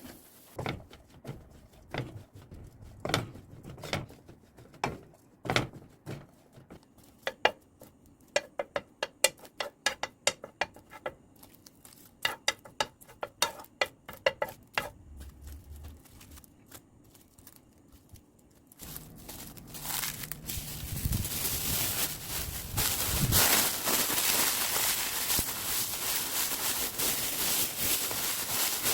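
Crisp dried gopchang-gim laver sheets being torn and crumpled by hand: scattered sharp crackles at first, turning about two-thirds of the way in to a louder, continuous crinkling.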